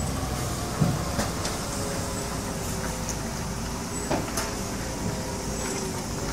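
Heavy loaded truck's engine running with a steady low rumble, with a few sharp clanks about a second in and again about four seconds in.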